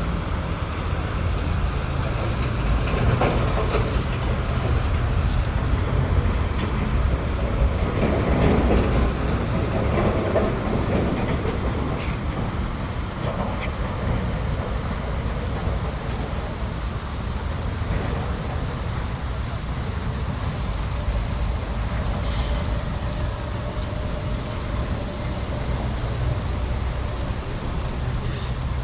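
City ambience in a park: a steady low rumble of distant traffic, with faint voices passing about a third of the way in.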